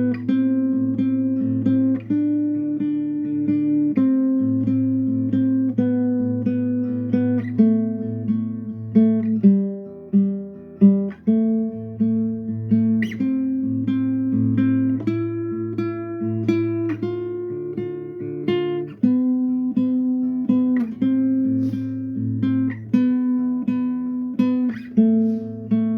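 Instrumental acoustic guitar music: plucked and lightly strummed chords over a low bass note, the chord changing about once a second.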